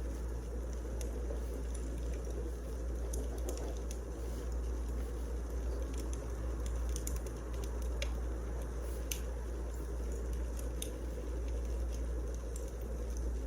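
Wood fire burning in a fireplace: a steady low rumble and hiss, with scattered sharp crackles and pops from the burning logs.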